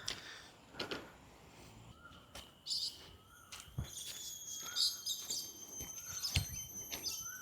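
Forest birds calling: a short rising note repeated about every second and a half, brief high chirps, and from about halfway a steady high-pitched tone. A few soft thuds are mixed in.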